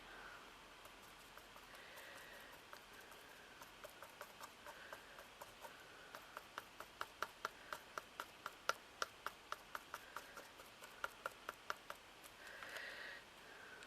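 Paintbrush dabbing acrylic paint onto a glittered ornament bird: a quick run of faint, light taps, about three or four a second, louder in the middle. A short soft rustle follows near the end.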